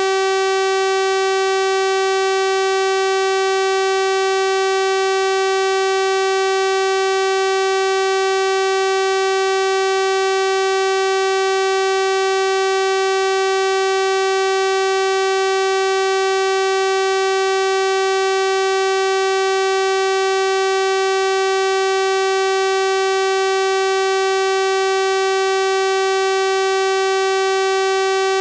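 Synthesized 384 Hz sawtooth-wave tone, a steady buzzy pitch that does not change, rich in overtones reaching high up.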